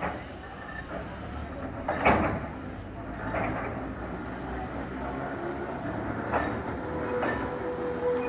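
Tourist train car rolling on the rails: a steady low rumble broken by a few sharp clanks, the loudest about two seconds in. A steady whine comes in near the end.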